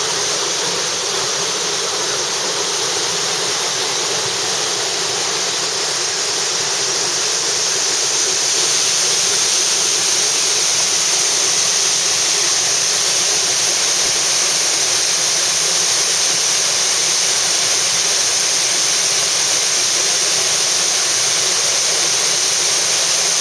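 Waterfall pouring steadily, a continuous rushing hiss of falling water that grows a little louder about eight seconds in.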